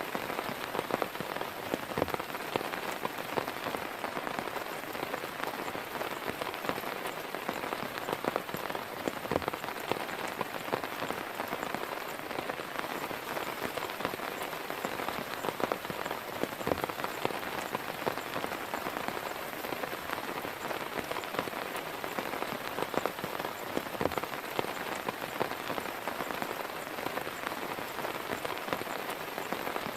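Steady rain falling, an even hiss with many separate drop hits heard through it.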